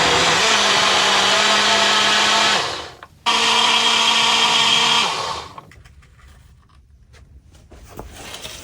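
Blender running at full speed, blending a peanut butter, banana and protein smoothie. It cuts out and winds down between two and three seconds in, starts again a moment later, and runs for about two more seconds before shutting off.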